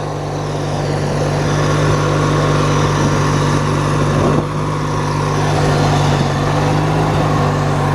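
Engine of an MTD-built riding lawn tractor running steadily as it is driven, with the choke partly on; the owner thinks the carburetor is a little clogged, which makes a good choke setting hard to find.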